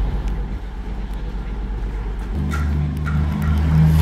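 Train at a station platform: a low rumble, joined about two and a half seconds in by a steady deep hum from its engine or traction equipment.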